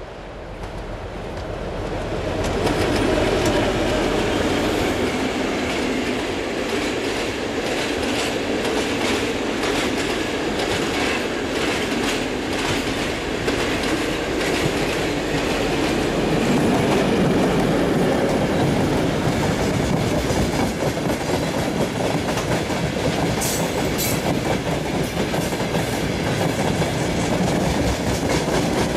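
Freight trains passing close, hauled by ST44 (M62-class) diesel locomotives: wagon wheels clattering rapidly over rail joints over a heavy diesel rumble. It swells to loud about two seconds in and stays loud.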